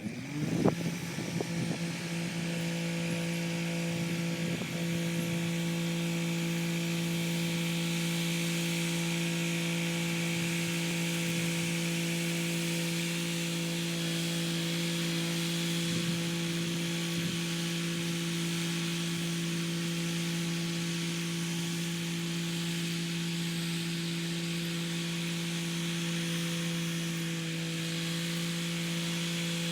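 Kubota SL35 tractor's diesel engine running at a steady working speed, with a few knocks in the first seconds.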